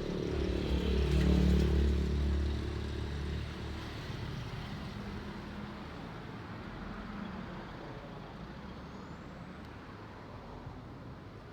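A heavy road vehicle's engine passing close by, loudest about a second and a half in and fading away by about three and a half seconds. Steady traffic noise follows.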